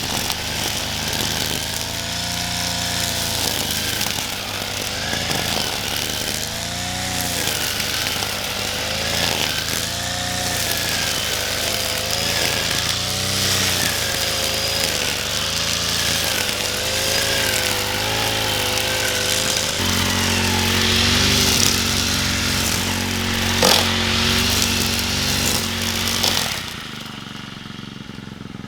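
Small petrol engine running and revving up and down, then holding a steady speed for several seconds before cutting out near the end.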